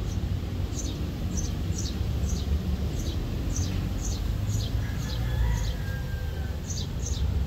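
A small bird chirping over and over, short falling chirps about twice a second, over a steady low rumble.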